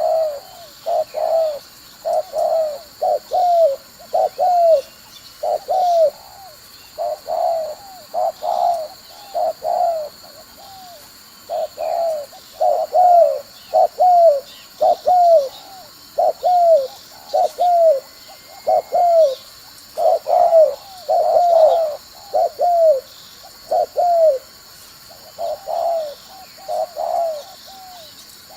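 Spotted dove cooing as a decoy lure call: phrases of two to four short, falling coo notes repeated over and over. Faint chirps of other birds and a steady high hum lie underneath.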